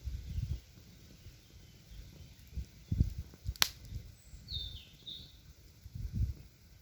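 Forest ambience by a campfire: a single sharp snap about halfway through and a bird giving two short high chirps soon after, over uneven low rumbling.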